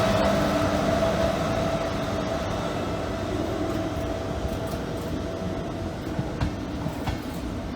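A train running at a railway station, its running noise and a steady whine slowly fading, with a few sharp clicks in the second half.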